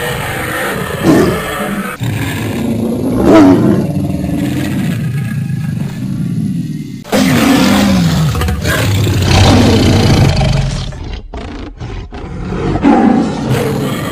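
Cartoon roars voiced for animated characters, a lion and a girl, in short spliced clips that cut abruptly from one to the next, with a few brief dropouts late on.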